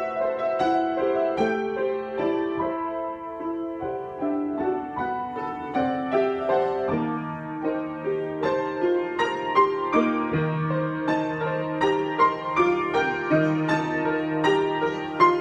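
Solo piano improvisation: notes struck in a flowing line over held, overlapping chords, with a steady low bass note through much of the passage.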